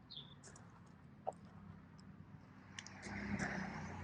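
A car passing on the street, its engine and tyre rumble growing louder over the last second. Faint high chirps come just after the start.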